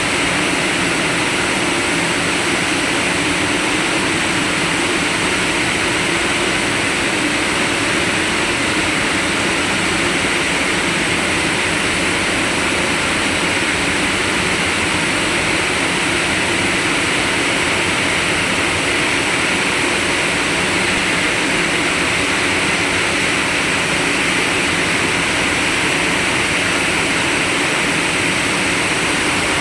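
Heavy machinery of a coal preparation plant running with a steady, loud noise: a constant hum under a hiss, unchanging throughout.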